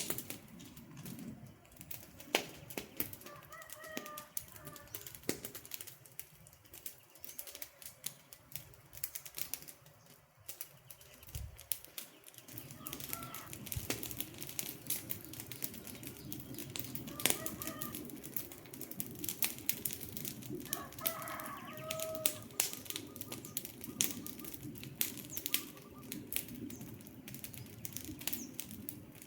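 Wood campfire crackling, with many sharp pops and snaps over a steady low rush of flame, and a bird calling faintly a few times.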